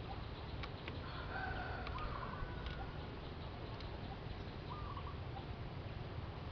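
A single long call, most likely a bird's, beginning about a second in and held for about a second and a half, over a steady low rumble and a few faint clicks.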